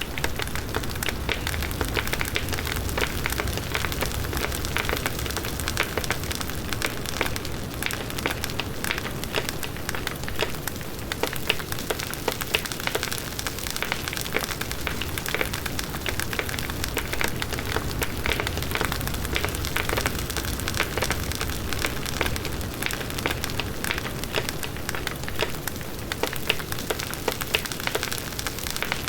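Large bonfire burning: the wood crackles with dense, continuous small pops over the low, steady rush of the flames.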